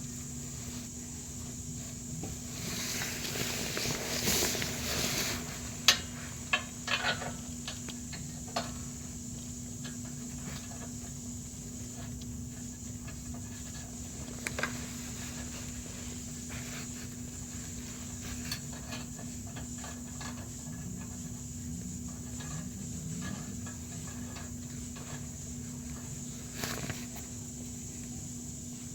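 Handling noise from work on a car's exhaust from underneath: a brief rush of rustling a few seconds in, then a cluster of sharp clicks and knocks, with single clicks later, over a steady low hum and high whine.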